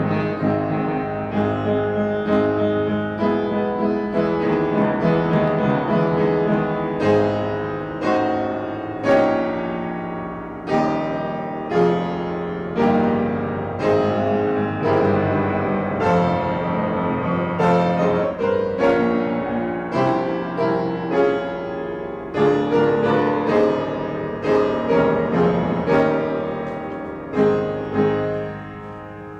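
Solo piano music played at a moderate pace, the notes struck and left to ring, fading away near the end.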